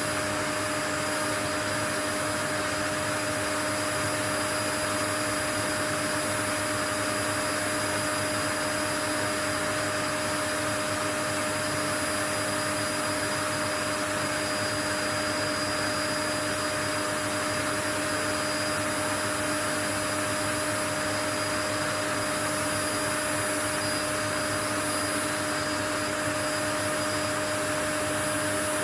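Steady, unchanging white noise: an even hiss with a few faint steady tones, a hum and a whine, running under it.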